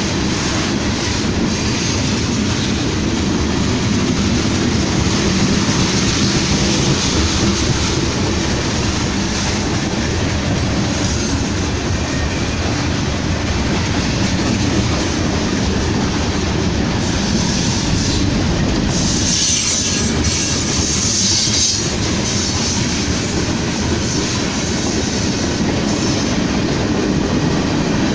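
A train rolling past at close range: steady, loud noise of wheels on rails, with a brighter, higher-pitched stretch about two-thirds of the way through.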